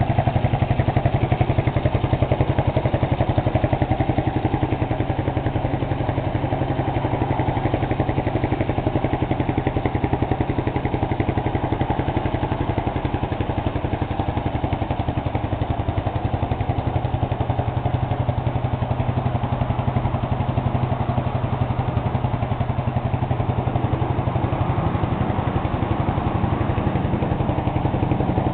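Honda FTR223's single-cylinder four-stroke engine idling steadily through an RSV aftermarket muffler, a fast even exhaust pulse with no revving.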